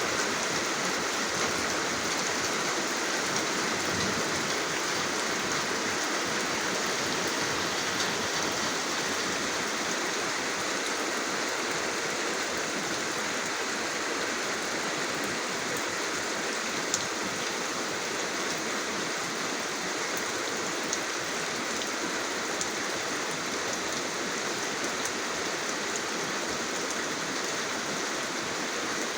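Steady rain falling, an even hiss with a few sharp drop ticks here and there.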